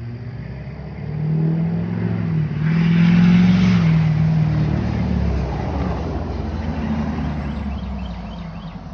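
A truck driving past: its engine and tyre noise build to a peak about three seconds in, then fade as it moves away.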